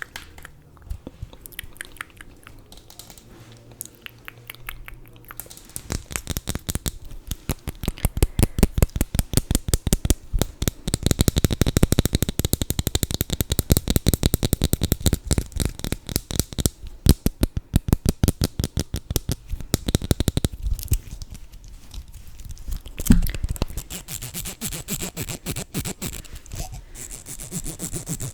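Fast, even tapping close to the microphone, starting about six seconds in, loudest in the middle and thinning out near the end, typical of ASMR tapping on makeup items.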